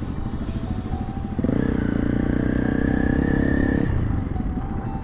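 Honda CRF300 Rally's single-cylinder engine running while riding, with wind rumble. About a second and a half in the engine note gets louder and steadier for roughly two and a half seconds, then drops back suddenly.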